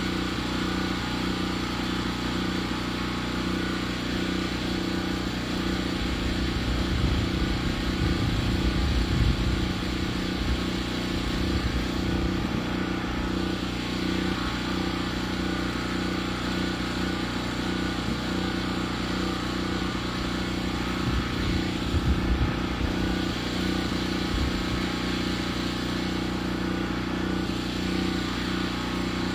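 Engine of a portable sawmill running steadily, with two louder stretches of low rumbling, once about a quarter of the way in and again past two-thirds of the way.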